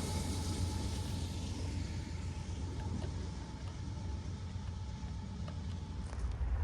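Low steady rumble of a train on the tracks, with a faint thin squeal of wheels that fades out near the end.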